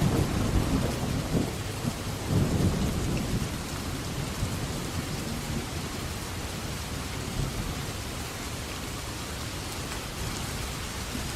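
Steady rain falling, with a low rumble of thunder in the first few seconds that fades away, leaving the rain alone.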